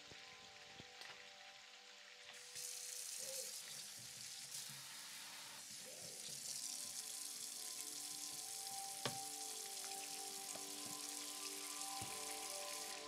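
Food sizzling in a hot frying pan, the dense sizzle starting suddenly about two and a half seconds in, with one sharp click about halfway through.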